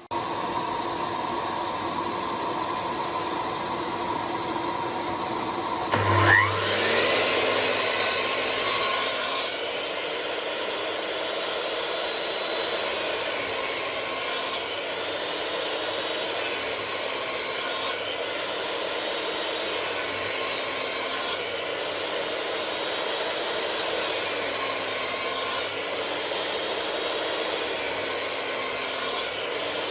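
An electric power tool cutting or sanding wood with a steady rasping. About six seconds in its motor speeds up and runs on, its pitch wavering slowly as it is pressed into the wood.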